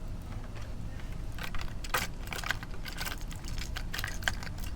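A hard-bodied jointed wake-bait fishing lure being handled: scattered light clicks and rattles of its body and hooks, over a steady low hum.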